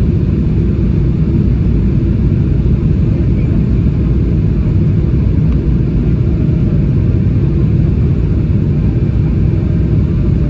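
Boeing 777-300ER cabin noise heard from inside the cabin: a steady low rumble of engine and airflow noise.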